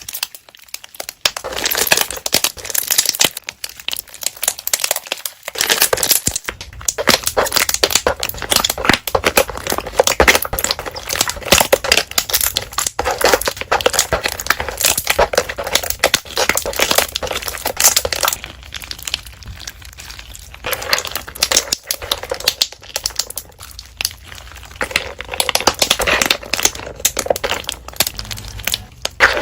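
Slime being squished and worked by hand, its trapped air bubbles popping in rapid, dense crackling clicks, with a few short pauses.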